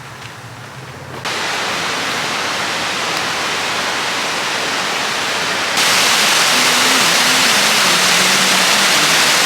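Steady rushing of falling water, as of a waterfall. It starts abruptly about a second in and turns suddenly louder around six seconds in.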